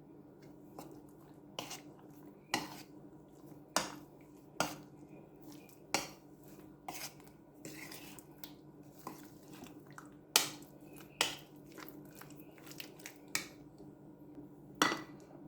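Metal utensil clinking against a bowl in irregular taps, about one every half second to second, while chicken pieces are mixed into an egg and corn flour coating.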